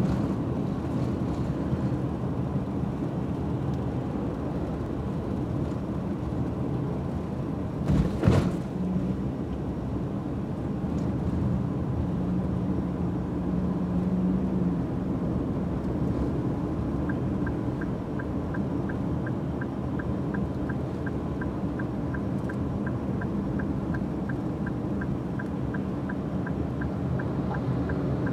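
Kansas City Southern diesel locomotives and a freight train rolling past with a steady rumble. A brief loud thump comes about eight seconds in. A light ticking at about three a second runs through the second half.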